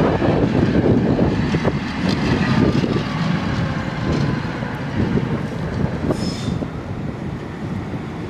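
Tram running on its rails with a steady low rumble of wheels and running gear, and a short high wheel squeal about six seconds in.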